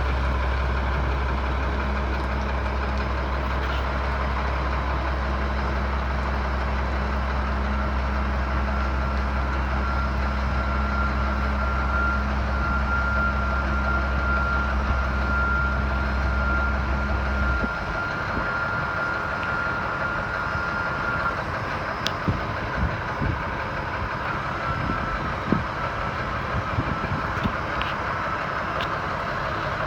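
Freightliner M2 106 dump truck's diesel engine idling steadily, then stopping abruptly a little over halfway through. A thin, steady high tone sounds through the middle. After the engine stops there are scattered clicks and knocks.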